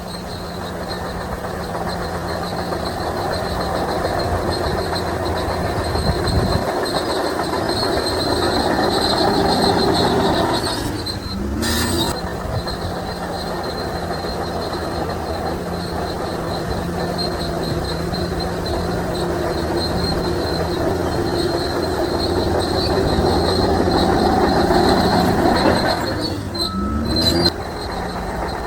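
Shantui DH17C3 crawler bulldozer working: its diesel engine runs under load while the steel tracks run, with a steady high-pitched whine over the noise. The sound breaks off sharply twice, about 11 and 27 seconds in, and after each break the engine note rises.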